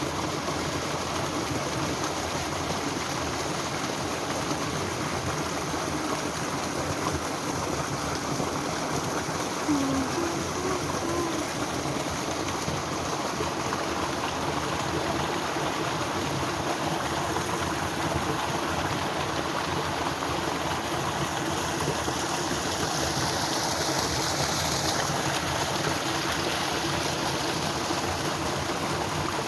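Flowing water rushing steadily, with no break.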